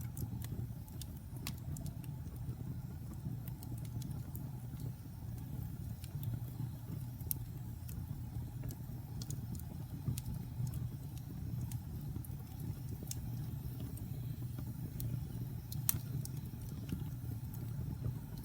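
Wood fire burning in a fireplace: a steady low rumble with scattered sharp crackles and pops, one louder pop near the end.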